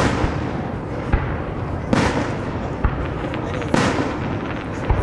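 Aerial firework shells bursting: four sharp booms about two seconds apart, each trailing off in a long echoing rumble, with smaller pops and crackles between them.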